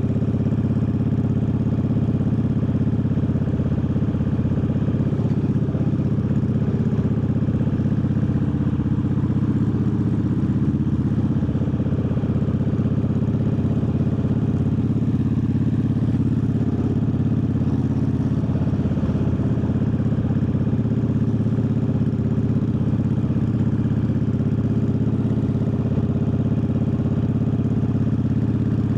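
Triumph Bobber's 1200 cc parallel-twin engine running steadily, its pitch shifting slightly about ten seconds in.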